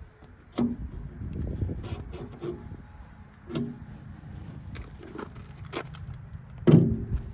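Scattered clicks, knocks and rattles of hands working on a hay baler while threading its twine, with one loud knock near the end.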